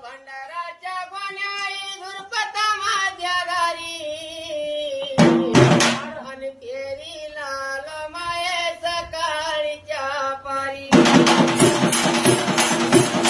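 A solo voice singing a Marathi folk devotional song to the goddess in long, drawn-out melodic lines, mostly unaccompanied, with one loud percussion stroke about five seconds in. Near the end the drums and jingling percussion come back in with a dense, steady beat under the song.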